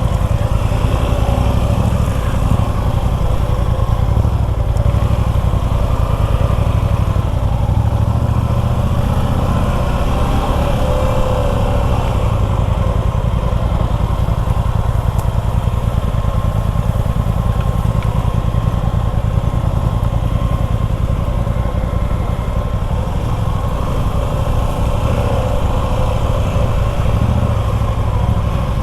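Motorcycle engine running steadily while being ridden, with road and wind rumble and no marked revving.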